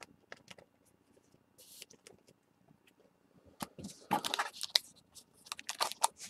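Trading cards being handled: faint clicks and slides of the cards against one another, then louder papery rustling from about four to five seconds in and again near the end as the cards are handled more vigorously.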